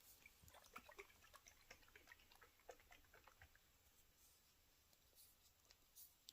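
Near silence with faint, scattered small clicks and taps: a glass dip pen and ink bottle being handled and readied for writing.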